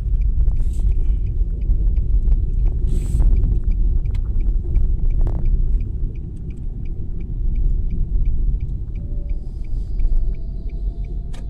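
Sandstorm wind buffeting the microphone: a loud, churning low rumble, with a faint regular ticking behind it.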